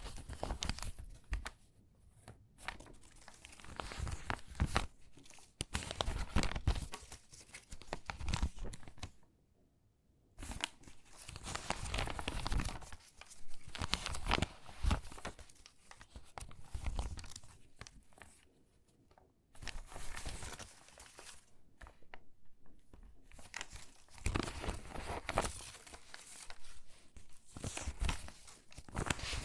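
Stiff, water-damaged magazine pages crinkling and rustling as they are handled and sorted, in irregular bursts with a couple of brief pauses.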